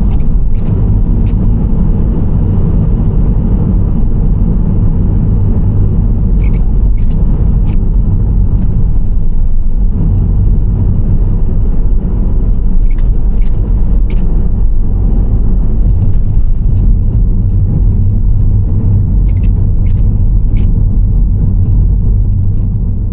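Nissan Serena C25 van driving, a steady low rumble of engine and tyre road noise. Sharp ticks come in groups of three about every six seconds, and the sound starts to fade near the end.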